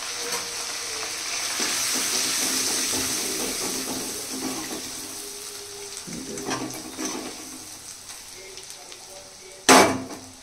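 Spices and ginger-garlic-chilli paste sizzling in hot oil in a kadhai, the sizzle swelling about two seconds in and then slowly dying down, with a ladle stirring the masala. A short, loud burst of noise near the end.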